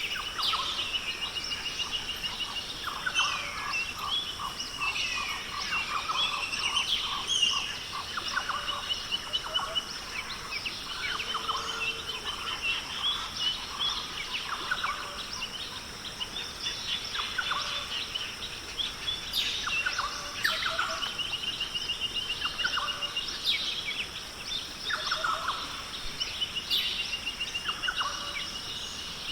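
Rainforest ambience with many birds calling over one another: a fast trill comes back every few seconds among assorted whistles and chirps, over a steady high-pitched hum.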